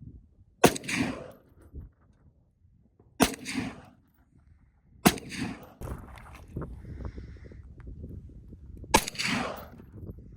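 Four rifle shots fired a few seconds apart, each a sharp crack followed by a short fading echo.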